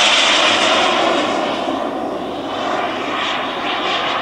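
Turbine-powered large-scale model of an English Electric Lightning jet flying past. Its steady rushing jet noise is loudest at first and fades as it moves away.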